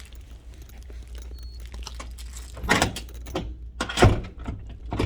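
Doors being tried and rattled to check that they are locked, with two loud thuds about a second and a half apart and lighter knocks between.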